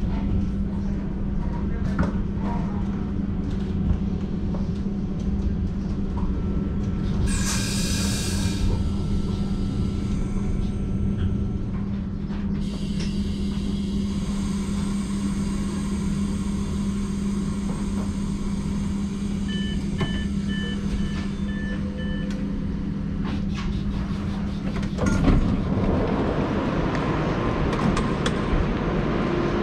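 Running noise of a Twindexx IC2 double-deck Intercity train heard from on board: a steady hum over a rumble. About seven seconds in there is a short hiss of air. Later comes a run of short beeps, and near the end the hum stops and a wider rushing noise takes over.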